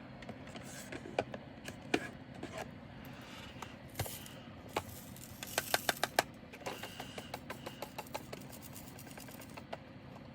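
Small plastic clicks and ticks of diamond painting resin drills and their containers being handled, with a quick run of rattling clicks about halfway through, over a low steady hum.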